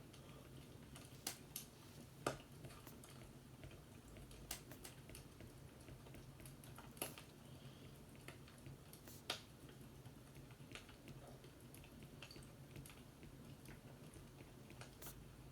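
Faint fireplace crackling: occasional sharp pops at irregular intervals over a low steady hum.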